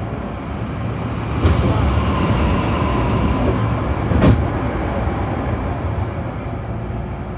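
Kintetsu 6020 series electric train running, a steady low rumble of wheels on rail. Two sharp knocks stand out, about a second and a half in and about four seconds in, the second the louder.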